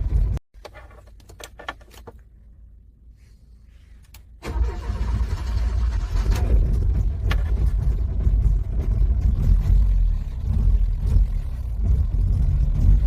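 Car engine being cranked on a cold start attempt: the cranking stops just after the start, a pause of about four seconds with a few faint clicks follows, then the cranking resumes and keeps going without the engine clearly settling into an idle.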